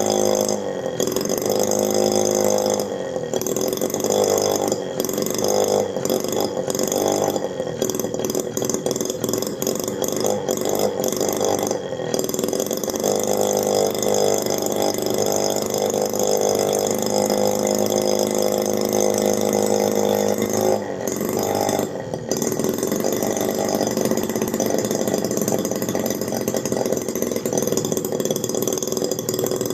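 Miniature two-stroke engine built from a refrigerator compressor running, its pitch rising and falling as the speed changes, with a few brief stumbles.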